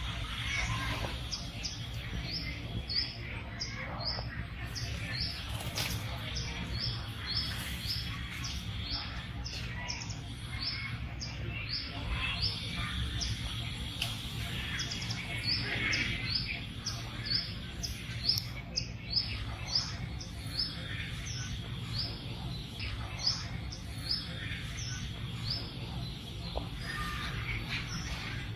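Outdoor bird chirping: short high chirps repeated two or three times a second, over a steady low hum.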